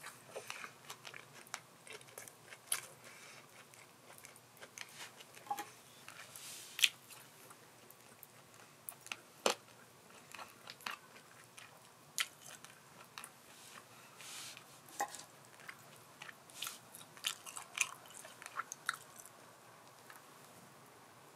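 A person eating close to the microphone: chewing and biting with irregular short crunches and clicks.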